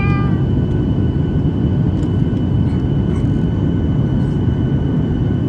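Steady low rumble of an airliner's engines and rushing air heard inside the passenger cabin, with a faint steady high whine above it.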